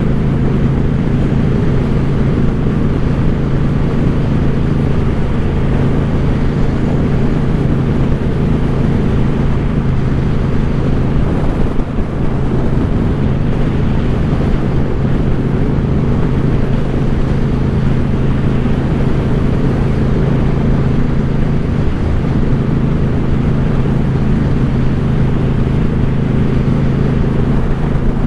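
2014 Suzuki Boulevard C50's V-twin engine running steadily through its Cobra aftermarket exhaust, with a brief dip in level about twelve seconds in.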